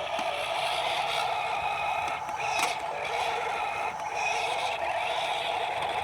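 Heavy machinery running steadily at a road-building site, with scraping and a few short clicks over it.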